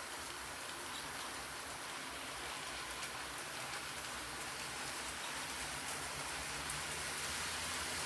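Model trains running on the layout's track: a steady rolling hiss of wheels on rail, with a faint low motor hum coming in partway through.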